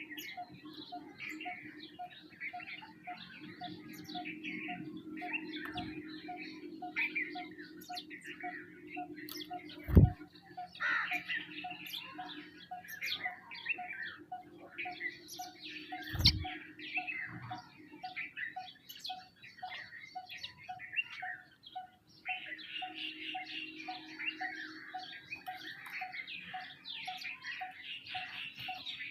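A flock of small birds, sparrows and mynas among them, chirping and calling over one another without a break. A faint note repeats about twice a second underneath, and two sudden loud thumps come about a third and about halfway through.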